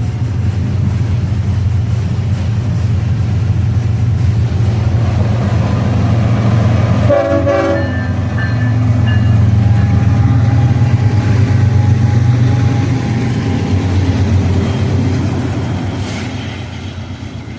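BNSF diesel locomotives running with a heavy low engine rumble. It grows louder toward the middle and fades near the end, with a brief horn blast about seven seconds in.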